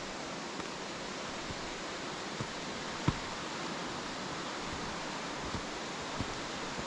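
Steady rush of flowing river water, with a few short sharp knocks, the loudest about three seconds in.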